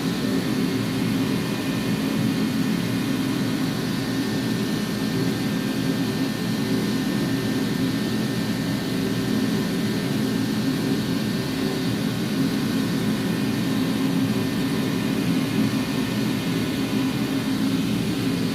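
Steady machine drone: an even low hum with a faint high whine over it, unchanging in level.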